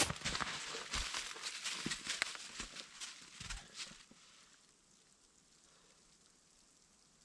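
Crunching and rustling with sharp clicks, as of snow, leaves and sticks being walked on or handled, dying away about four seconds in.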